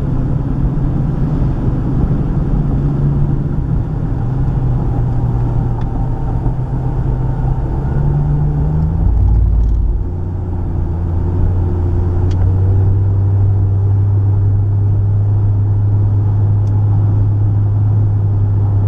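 Inside a moving car: steady engine and tyre drone while driving. The engine note climbs slowly, then drops about nine seconds in and holds steady.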